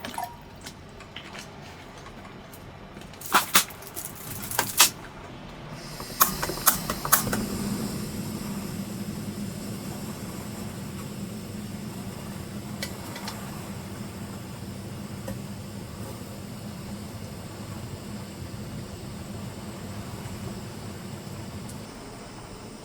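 A handful of sharp clicks and clatters, then a steady hiss with a low hum sets in about six seconds in and keeps going.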